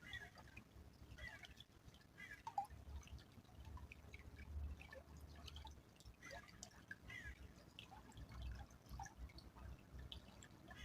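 A small stream trickling faintly, with irregular plinks of water dripping and splashing.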